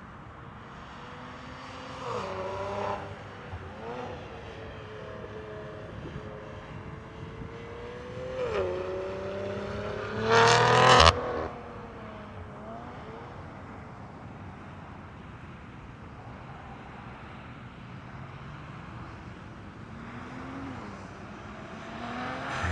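BMW S58 twin-turbo straight-six breathing through a titanium equal-length X-pipe catback exhaust with catless downpipes, running steadily and revved in short blips. Short revs come about two seconds in and about eight seconds in, a much louder, higher rev around ten to eleven seconds in that drops back sharply, and another small blip near the end.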